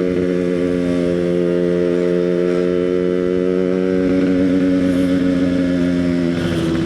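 Yamaha RX-King's two-stroke single-cylinder engine running at steady riding speed, its exhaust note holding a constant pitch with a slight rise midway and easing off a little near the end.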